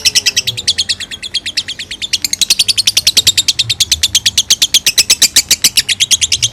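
Lovebird ngekek: a long unbroken run of shrill, rapid chirps at about nine notes a second, softening briefly about two seconds in. It is the nonstop chatter that bird keepers call 'konslet'.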